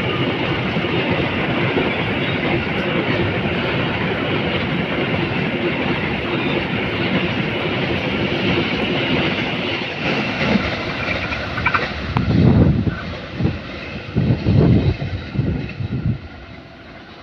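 Tarpaulin-covered freight wagons of a cement train rolling past on the rails, a steady clatter of wheels that thins and fades as the train draws away. Near the end a few loud, low bursts break through.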